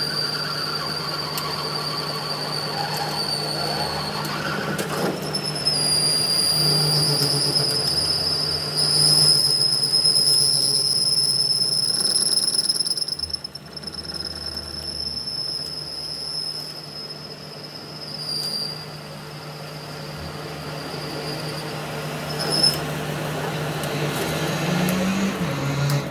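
Metal-cutting machine working steel: a steady high-pitched squeal over a low motor hum. The squeal weakens about halfway through and dies away near the end.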